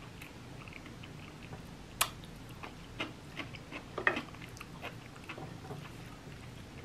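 Close-up mukbang eating sounds: a person chewing a mouthful with small wet mouth clicks. A sharp click comes about two seconds in, and several more come around three to four seconds.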